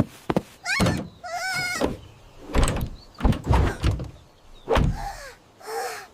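A series of knocks and thuds, with a wavering, bleat-like animal call about a second and a half in and short sliding calls near the end.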